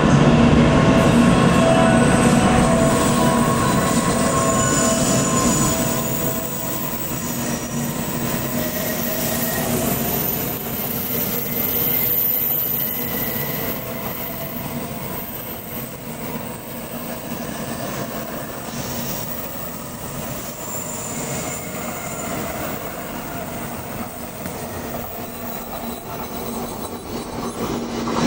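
N700A Shinkansen train pulling slowly out of the platform: a steady whine from its running gear over rolling wheel noise, easing off after about six seconds as the train draws away.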